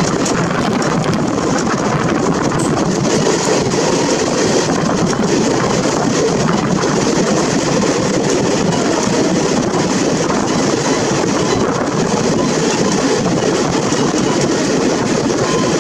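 Steady running noise of an Indian Railways ICF passenger coach on the move: the wheels run on the rails and air rushes past the open door, even and unbroken.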